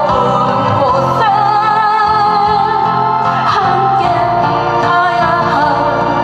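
A woman singing a Korean ballad over a backing track, holding long notes with vibrato.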